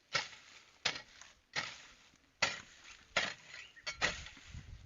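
A hand tool chopping into the ground over and over in a steady work rhythm: six sharp strokes, about one every three quarters of a second.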